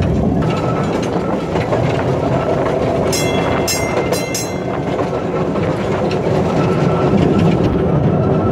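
Open wooden car of a small park railroad rolling along the track: a steady rumble and clatter of wheels on rail. A quick run of short, high, ringing metallic sounds comes about three seconds in.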